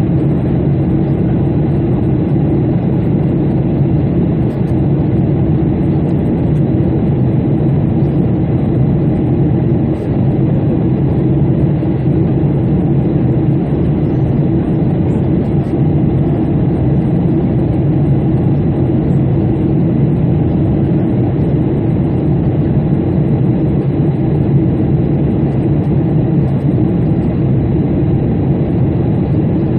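Steady, unchanging low drone of an airplane in flight, engines and rushing air together.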